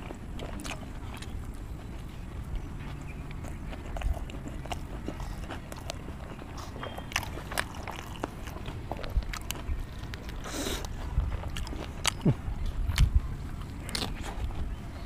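A person chewing and biting food eaten by hand, with irregular sharp mouth clicks and smacks over a low rumble.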